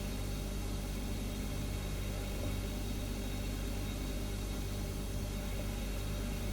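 Refrigerator running with a steady low hum, a few steady tones over an even hiss.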